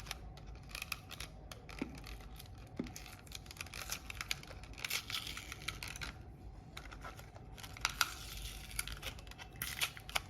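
Close handling of a plastic computer mouse: irregular small clicks, scratches and crinkling as glue residue is picked and rubbed off its shell.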